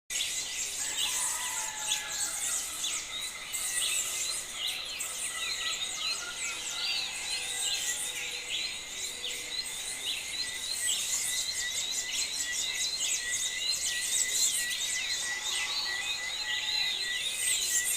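A dense, continuous chorus of many birds chirping and calling, short quick high notes overlapping throughout.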